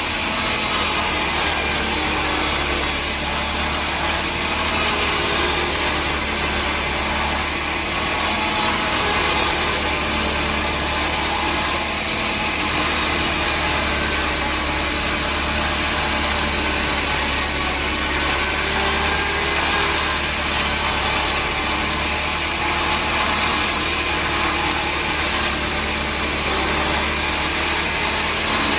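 Sawmill machinery running steadily: a continuous engine drone with the noise of a saw working through wood, with no breaks or changes.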